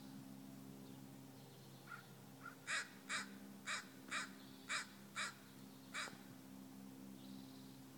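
A bird calling: two faint calls, then a run of seven loud, repeated calls at about two a second in the middle. A steady low hum runs underneath.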